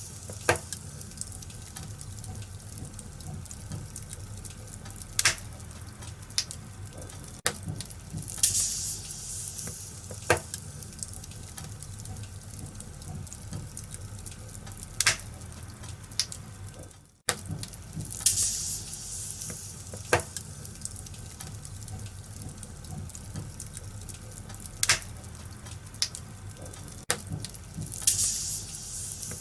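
Wood fire crackling in a fireplace: a steady low rumble and hiss, broken by sharp pops every few seconds and occasional louder bursts of crackling. The sound fades and cuts out for a moment about halfway through.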